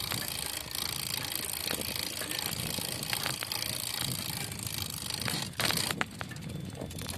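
A bicycle being ridden, with a steady noisy rush and the bike's own small running noise, which the rider says is normal for this bike. A brief louder rush comes about five and a half seconds in.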